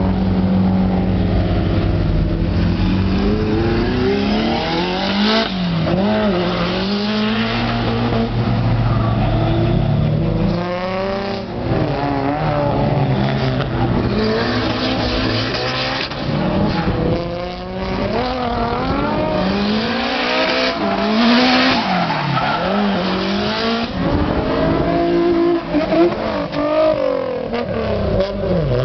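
Car engines revving over and over, pitch swinging up and down, with stretches of loud hiss that may be tyres spinning.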